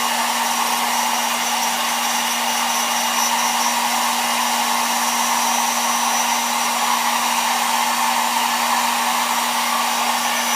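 Hair dryer blowing steadily, with a constant motor hum under the rush of air, held on a smartphone's glass screen to heat it and melt the glue between the glass and the digitizer.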